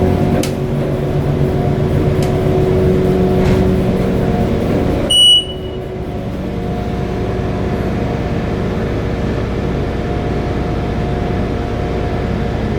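Hydraulic elevator's pump motor running with a steady hum. A short, high electronic chime sounds once about five seconds in, after which the hum continues a little quieter.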